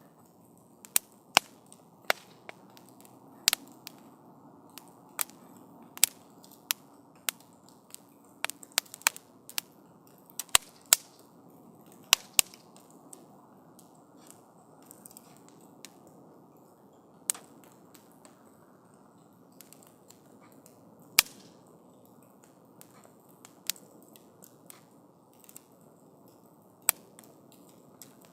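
Wood campfire crackling: sharp, irregular pops and snaps over a soft, steady rush of burning. The pops come thick during the first dozen seconds, then grow sparser.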